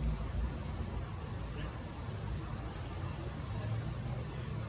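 An insect trilling: high-pitched, even trills about a second long, repeated with short gaps, over a steady low rumble.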